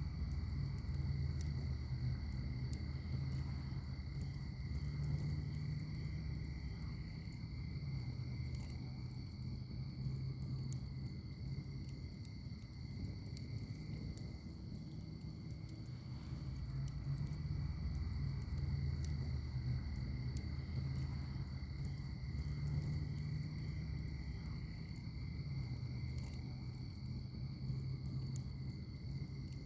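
Wood fire in a firepit burning with sparse, small crackles over a low, steady rumble that swells and eases. A steady, high-pitched insect trill runs underneath.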